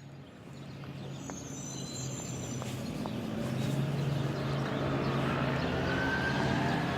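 Steady low motor hum of a running vehicle, growing louder over the first few seconds and then holding.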